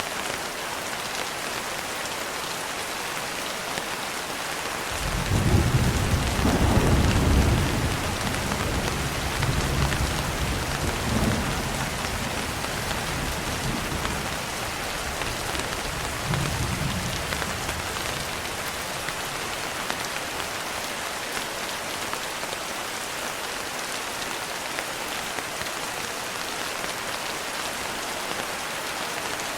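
Steady rain falling, with a roll of thunder about five seconds in that rumbles loudest for a couple of seconds, then rolls away in weaker swells and fades by about the middle.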